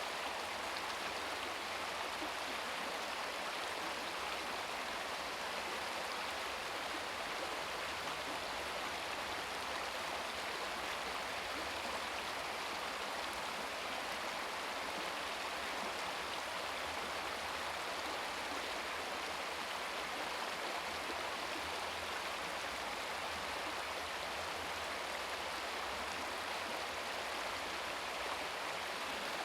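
Small brook babbling steadily over stones, a continuous even rush of flowing water.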